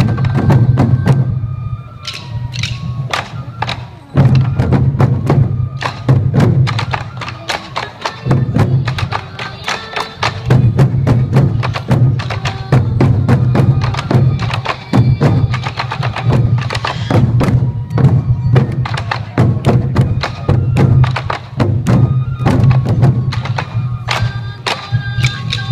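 Sansa odori festival music: many taiko drums beaten together in a driving rhythm, with sharp clicks of sticks on the drum rims and high bamboo flute lines above. The drumming slackens briefly twice, a few seconds in and again around nine seconds, then comes back in full.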